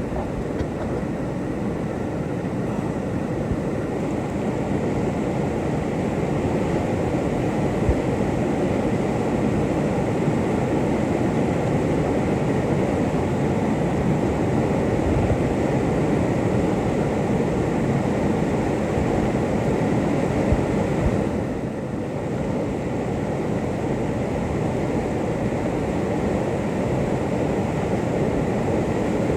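Whitewater rapids on a mountain river: a steady, deep rushing of water with no break, apart from a brief dip about two-thirds of the way through.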